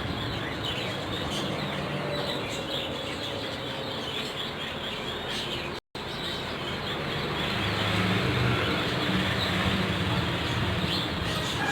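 A flock of caged birds chirping together, a dense continuous chatter of many small calls. The sound cuts out for an instant about halfway through.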